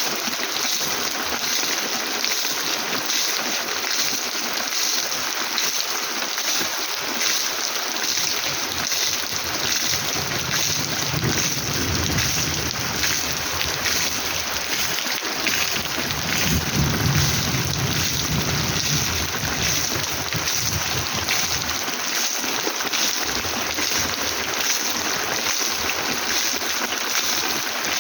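Heavy rain falling in a steady hiss, with two low rumbles of thunder rolling under it, the first about ten seconds in and a louder one about sixteen seconds in.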